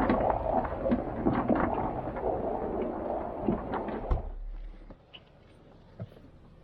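Rumbling and knocking of a 4x4 driving hard through deep snow. The rumble dies away about four seconds in, leaving near quiet.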